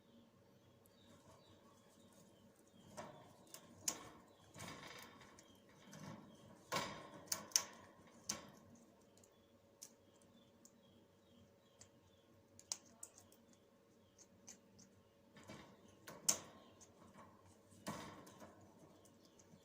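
African grey parrot handling neem leaves: irregular rustling with scattered sharp clicks and knocks, busiest in the first half and again near the end.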